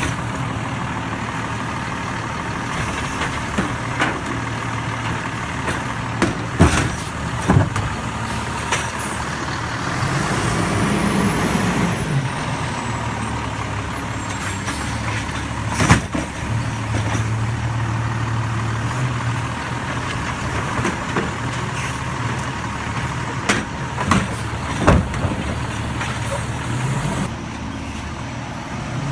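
Garbage truck engine running with a steady drone that swells for a couple of seconds around ten seconds in. Several sharp clanks and bangs punctuate it.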